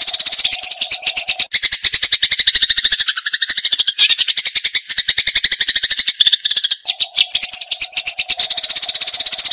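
Eurasian tree sparrows giving fast, agitated fighting chatter: a dense, unbroken run of short, high chirps, about a dozen a second. A lower, steadier tone sits under it at the start and end.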